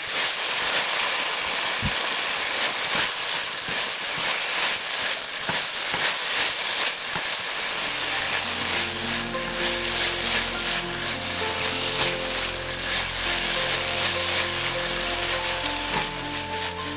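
Zucchini and minced beef sizzling in a hot wok while being stirred and tossed with a silicone spatula, with a few sharp scrapes and knocks in the first half. Background music comes in about halfway through.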